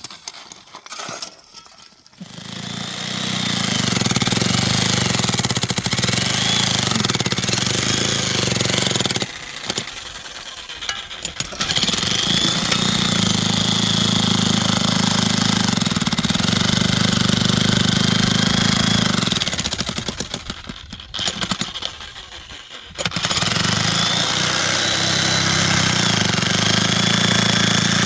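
A small engine running steadily. It builds up a couple of seconds in and drops away twice for a few seconds before picking up again.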